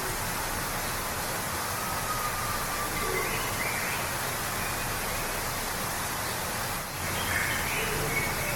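Steady rushing of a waterfall, an even wash of falling water. Faint short bird calls come through it about three seconds in and again near the end.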